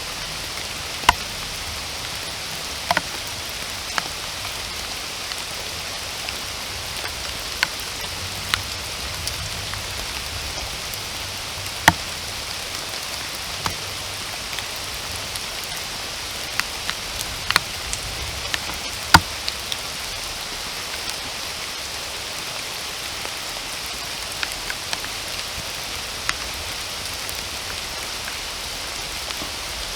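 Steady rain falling in a forest, an even hiss, with individual heavy drops landing close by as sharp irregular taps, two of them louder, about twelve and nineteen seconds in.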